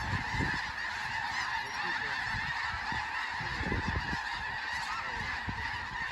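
A huge flock of snow geese calling overhead and in the decoys: a dense, unbroken chorus of honking from many birds at once.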